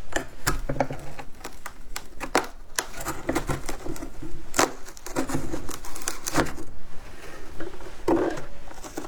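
Humidifier ice being bitten and chewed close up: a dense, irregular run of sharp cracks and crunches as the chunks break between the teeth.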